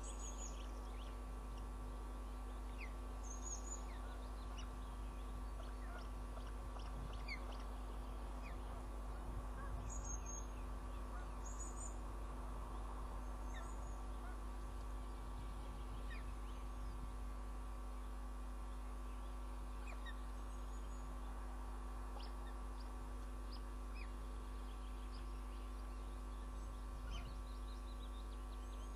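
Steady electrical hum on the nest camera's audio, with short high bird chirps scattered through it every second or two.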